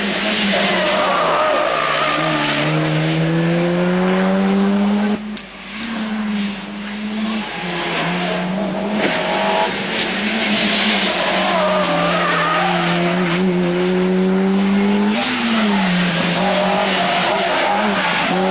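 Rally car engine at high revs accelerating hard through the gears, its pitch repeatedly climbing and then dropping at each shift or lift. There is a sharp lift off the throttle about five seconds in and another about fifteen seconds in.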